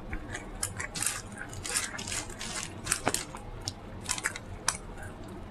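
Close-miked eating: chewing and lip smacking, a string of irregular wet clicks and short crackly bursts.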